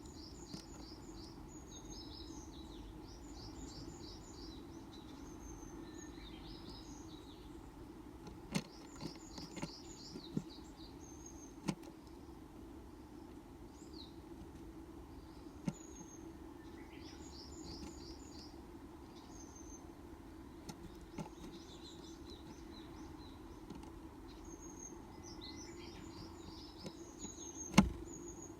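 Japanese tits calling in quick runs of short, high chirps, over and over, over a steady low hum. Now and then there is a sharp knock or tap, the loudest one near the end.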